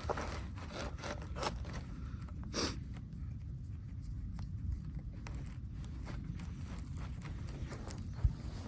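Scattered rustling, scraping and small knocks of hands-on handling over a steady low rumble, with a short rasping scrape about two and a half seconds in and a sharp thump near the end.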